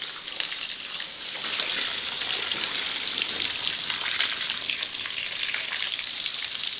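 Dust and grit from blasting being cleared off a freshly blasted rock face: a steady hiss full of fine crackles.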